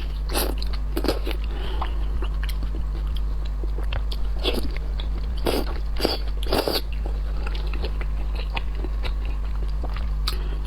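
Close-miked eating: a person biting and chewing seafood, with irregular crunches and clicks, louder bursts a few seconds in, over a steady low hum.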